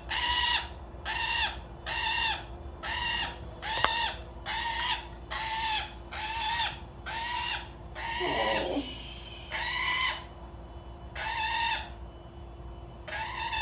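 A parrot giving short, harsh squawks over and over, about one and a half a second, with a pause near the end.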